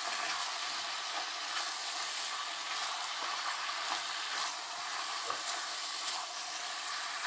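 Chicken stew frying in oil in a kazan, with a steady sizzle, while it is stirred with a spoon, giving a few light clicks against the pot.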